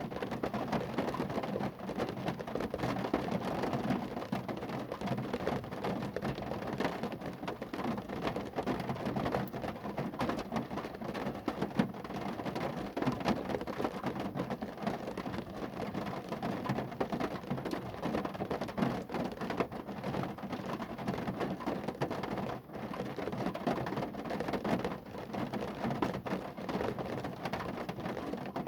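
Rain falling on a car, a dense, steady patter of countless drops with no let-up.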